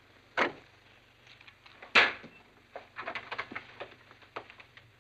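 A wooden door being handled: a knock-like thud about half a second in and a louder bang about two seconds in, followed by a run of light taps and clicks.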